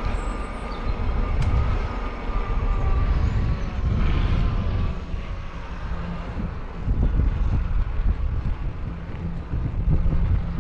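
Wind buffeting the microphone: a loud low rumble that rises and falls in gusts, with a faint thin whine that fades out in the first few seconds.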